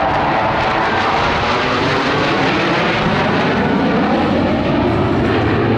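Fixed-wing airplane flying past during an air show demonstration, its engine noise loud and steady, with the pitch bending as it passes.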